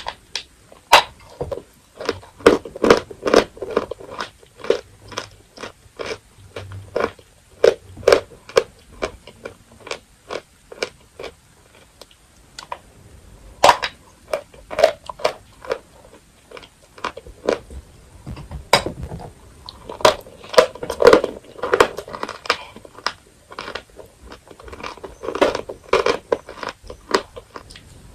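Dry edible chalk being bitten and chewed: a long run of sharp, irregular crunches coming in quick clusters, with a short lull near the middle.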